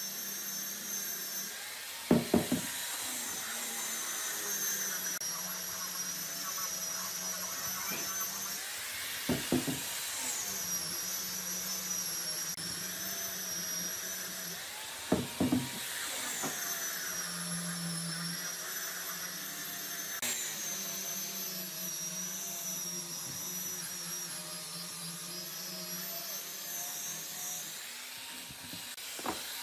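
Electric power tool motor running with a steady high whine; its pitch dips and recovers several times as it works the wood. Sharp knocks come about 2, 9 and 15 seconds in.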